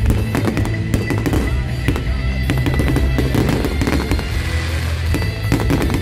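Fireworks display going off in quick, irregular bangs and crackling, with music playing throughout.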